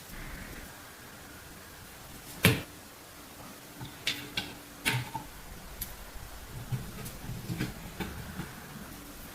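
Sharp clicks and light knocks from small metal parts of an antique sewing machine being handled and fitted. One loud click comes about two and a half seconds in, followed by a scatter of smaller clicks and taps.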